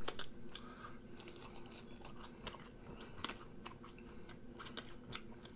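A person chewing a mouthful of bagel burger: faint, irregular clicks of the mouth, a few a second.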